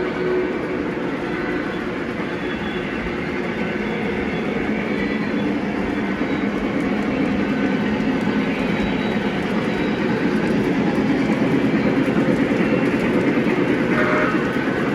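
Electric model train running along layout track: a steady motor whir and wheel rumble that grows slightly louder in the second half.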